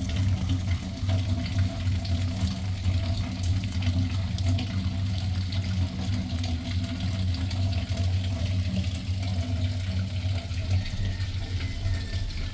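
Steady rush of flowing floodwater, a continuous low-heavy roar with fine spattering over it.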